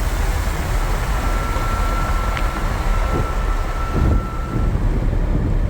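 Lamborghini Huracán's V10 running at speed, mixed with a loud steady rush of road and wind noise over a low rumble. A thin steady tone sounds through the middle, and there are a couple of brief low thumps.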